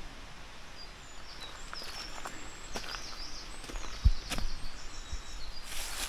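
Forest ambience: a small bird chirps in short high notes from about a second and a half in, with a few clicks and a single low thump about four seconds in. Rustling footsteps on dry fallen leaves begin near the end.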